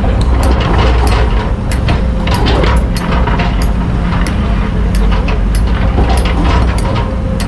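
Hydraulic excavator's diesel engine running steadily under load, with frequent short clicks and clatter of sand and stones as it digs.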